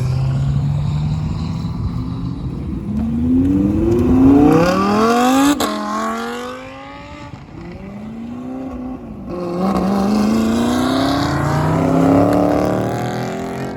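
A high-revving sports car engine accelerating hard, in two runs. Its pitch climbs and drops back in short steps as it goes up through the gears, with a sharp crack in the middle of the first run.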